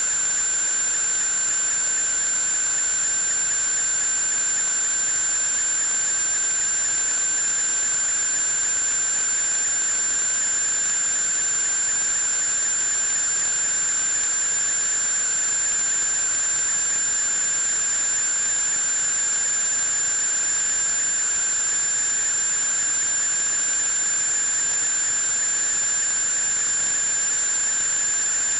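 Steady hiss with a constant high-pitched whine and a lower, slightly wavering whistle, unchanging throughout.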